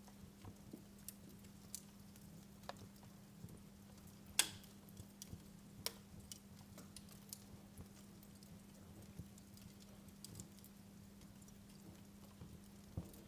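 Wood fire crackling, with small irregular pops and one sharper pop about four seconds in, over a steady low hum.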